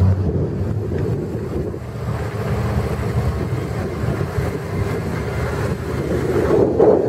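Off-road 4x4 engine running steadily, growing louder near the end, with some wind noise on the microphone.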